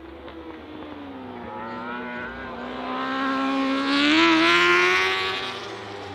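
A superbike's engine approaching and passing under acceleration, its note rising in pitch as it gets louder and then fading near the end.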